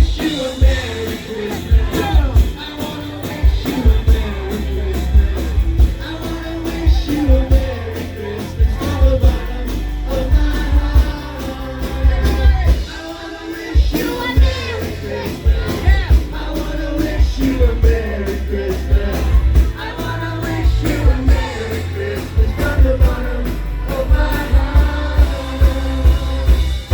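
A band playing an upbeat song, with a steady kick drum and bass under singing.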